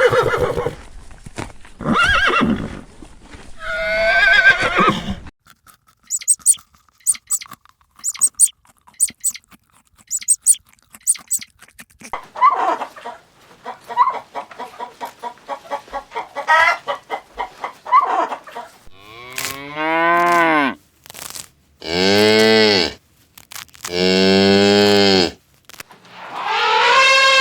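A run of different farm animal calls one after another: whinnying in the first few seconds, then strings of short, higher calls, then three long, low cow moos whose pitch swells and falls. Another loud, drawn-out call begins near the end.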